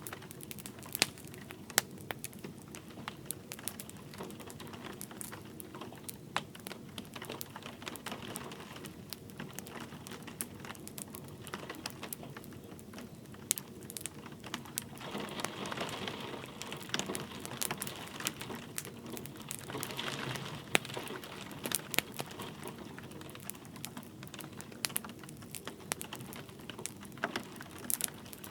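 Wood fire crackling and popping, with many sharp clicks over the steady hiss of light rain, which swells briefly twice in the middle.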